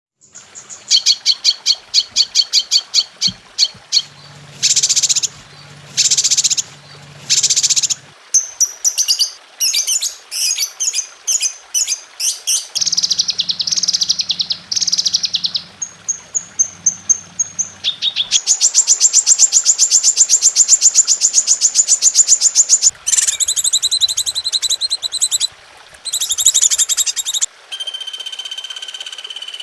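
A string of different songbirds singing, one recording after another, as in a song-training compilation. It opens with rapid repeated chips, then long high notes, fast varied phrases, and a long fast trill in the middle, with the song changing every few seconds.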